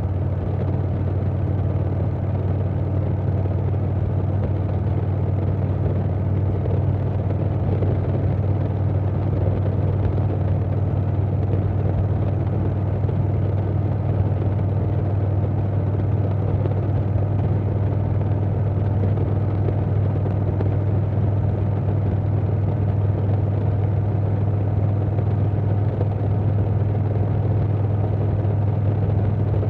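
2020 Harley-Davidson Softail Standard's Milwaukee-Eight 107 V-twin running steadily at an even pitch through a Vance & Hines Big Radius 2-into-2 exhaust.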